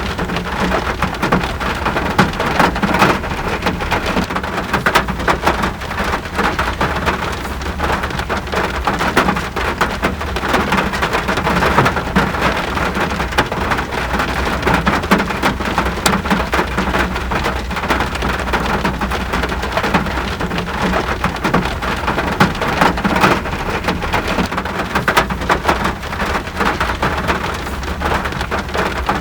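Steady rain falling, full of separate drop hits, over a continuous low rumble.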